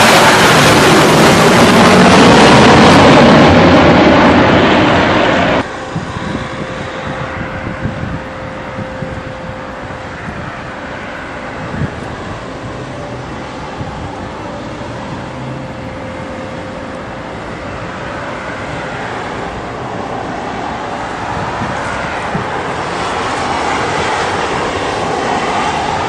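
Large jet airliner passing loud and low on landing approach, its engine noise cut off abruptly about five seconds in. After that, quieter jet engine noise with a faint steady tone that slowly builds towards the end.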